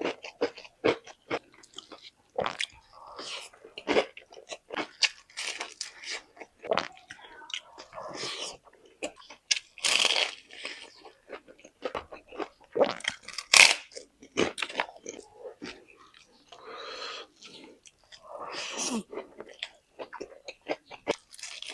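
Close-miked eating: crispy fried chicken crunching in sharp, irregular bites, with chewing between them. The crunches come every second or so, a few louder ones near the middle.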